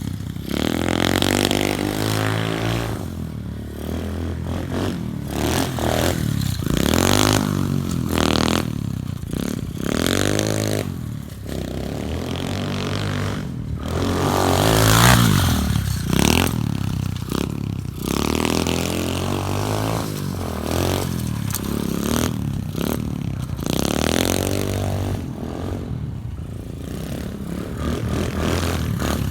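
SSR 125 pit bike's single-cylinder four-stroke engine being ridden hard, revving up and dropping back over and over as the throttle opens and closes and the gears change.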